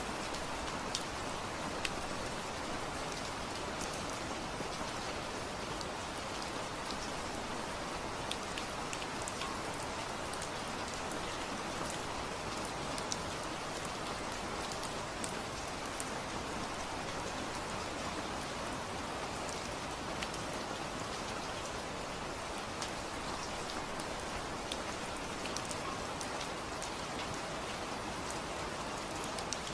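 Steady rain falling, with a continuous hiss and scattered individual drops ticking on a surface.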